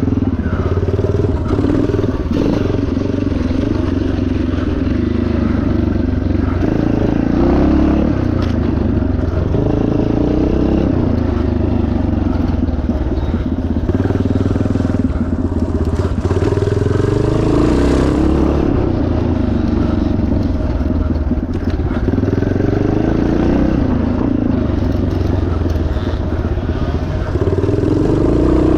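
Single-cylinder four-stroke engine of a 1977 Yamaha TT500 dirt bike, revving up and down over and over while it is raced cross-country, its pitch climbing and dropping every few seconds.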